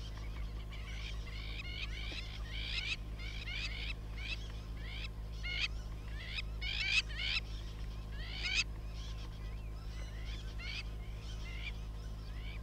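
Wild birds calling: a run of short, sharp, downward-sliding notes, several a second in uneven clusters, loudest in the middle, over a steady low hum.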